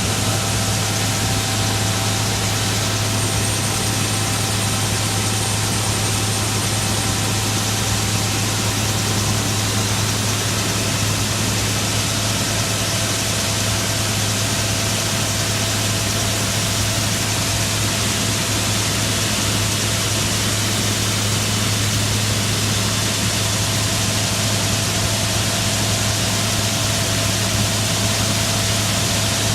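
A heavy vehicle engine running steadily at an even speed: a constant low drone with a wide hiss over it that does not change.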